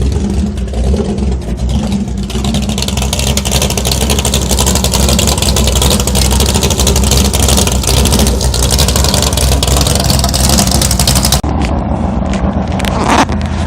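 Custom jet boat's big-block engine, a 464 bored .060 over, running hard with a deep steady note. A loud hiss rises over it about two seconds in and cuts off sharply near the end.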